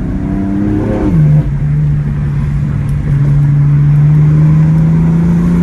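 Straight-piped BMW M4 twin-turbo inline-six running under acceleration. About a second in the engine note drops sharply, as at an upshift, and then climbs slowly again in the next gear.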